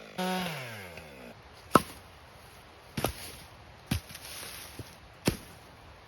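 Stihl MS 462 chainsaw dropping from high revs back toward idle in the first second, its pitch falling. Then four or five sharp knocks, roughly one a second.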